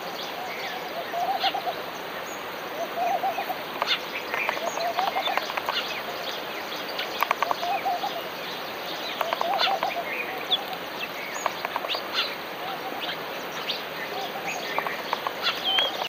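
Birds calling: a low warbling call repeated about every second and a half, with short higher chirps in between.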